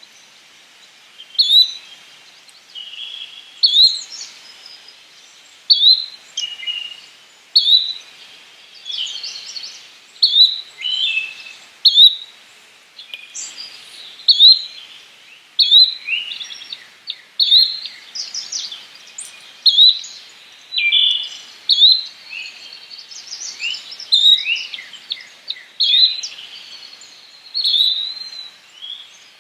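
Yellow-bellied flycatcher calling: a short, sharp high note repeated about every two seconds, with other bird notes and chirps in between.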